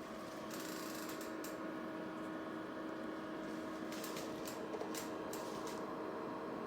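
A steady electrical hum, with a few scattered clicks and short bursts of hiss about a second in and again around four to six seconds in.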